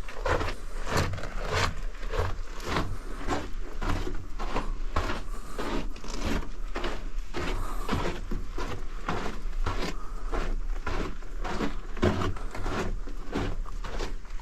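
Footsteps walking steadily through a tunnel, about two steps a second.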